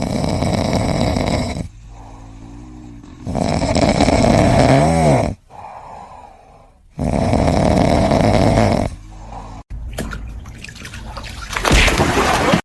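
An animal snoring: three long snoring breaths, about three and a half seconds apart. About ten seconds in, the sound cuts to a different, noisier sound.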